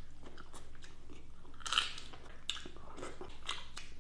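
A person chewing and biting food close to the microphone: irregular wet, crunchy mouth noises, loudest just under two seconds in.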